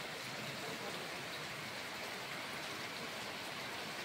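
Heavy rain pouring steadily onto a wet road, an even hiss with no breaks.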